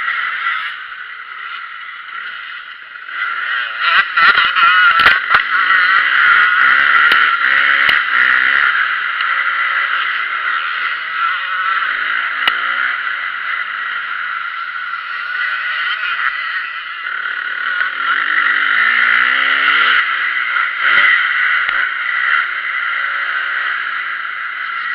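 Motocross bike engines running and revving, their pitch rising and falling, louder from about four seconds in.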